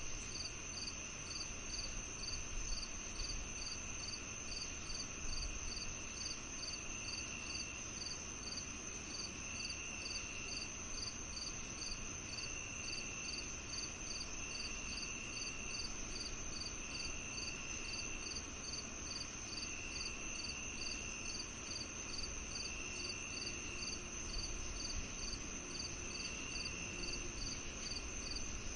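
Summer-evening insect chorus led by crickets: a steady high trill, a chirp repeating about twice a second, and a lower trill that comes and goes every couple of seconds.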